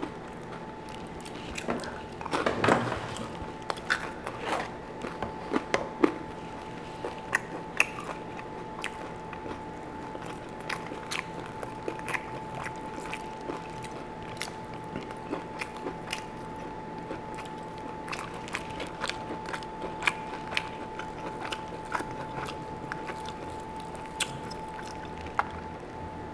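Close-miked chewing and biting while eating lobster claw meat, with many small irregular clicks and mouth sounds. There is a louder burst about two to three seconds in.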